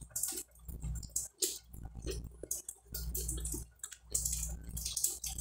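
Close-up chewing of crisp toasted bread with mortadella: a quick, irregular series of crunches and crackles.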